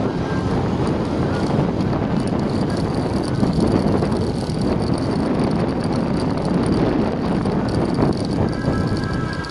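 Motorcycle riding along a road: engine and tyre noise under steady wind rushing on the microphone.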